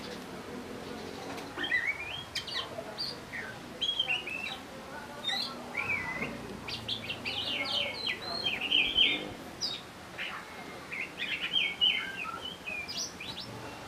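Birds chirping: many short, high calls come and go, with quick runs of chirps around the middle and again near the end.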